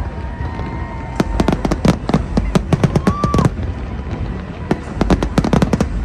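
Fireworks going off in rapid volleys of sharp cracking bangs: two dense runs with a short lull between them.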